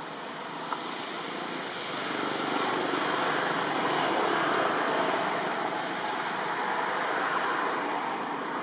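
A road vehicle passing by: a rushing noise that swells over a couple of seconds, peaks midway and slowly fades.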